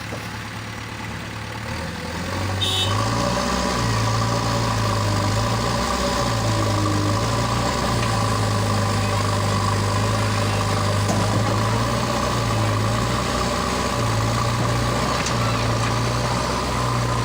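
A heavy diesel vehicle engine running steadily, with small shifts in pitch. It gets louder about two and a half seconds in.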